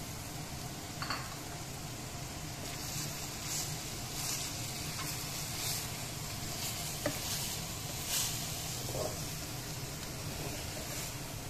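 Chicken pieces frying in oil in a pan, sizzling steadily, while a wooden spatula stirs ground spices through them, with a run of short scrapes against the pan in the middle.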